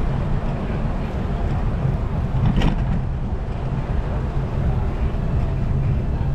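Wind and road noise on a cyclist's camera microphone while riding through city traffic: a low, steady noise, with one sharp knock about two and a half seconds in.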